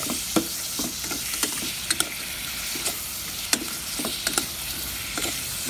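Shrimp frying in hot oil in a steel pot with a steady sizzle, while a spatula stirs them and clicks and scrapes irregularly against the pot.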